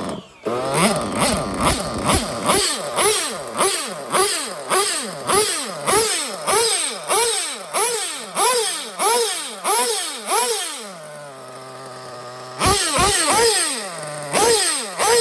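Nova X5B nitro engine of an RC buggy, on its first start, being revved in short throttle blips, about two a second. Its pitch shoots up and falls back each time. It settles to a steady idle about 11 seconds in, then starts blipping again near the end.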